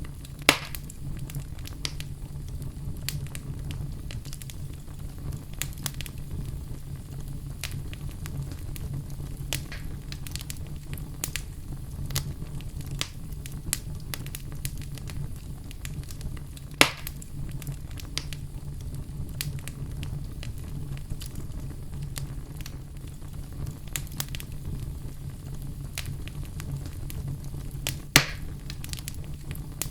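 Wood fire in a fireplace crackling, with frequent small crackles over a steady low rumble. Three louder pops stand out: one just after the start, one about halfway through and one near the end.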